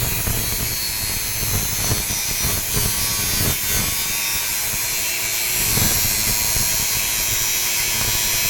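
A grinder machine running steadily: a continuous bright hiss over a rough low rumble.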